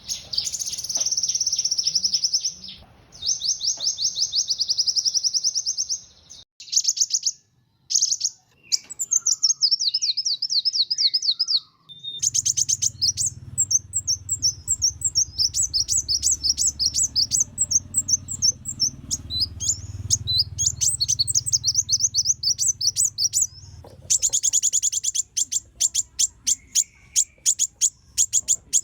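Kolibri wulung (a sunbird) singing energetically: long, rapid high-pitched trills and fast chattering phrases with brief pauses between them. A low rumble sits under the song through the middle stretch.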